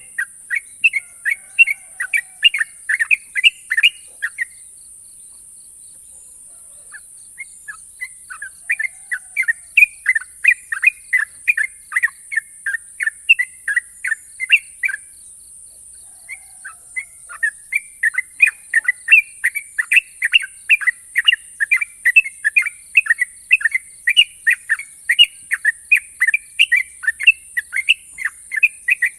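Yellow-vented bulbul (trucukan) singing its rapid rolling song ("ropel"): long runs of quick, sharp repeated notes at about five a second. The runs break off twice for a couple of seconds, about four seconds in and again near the middle. A steady high hiss runs underneath.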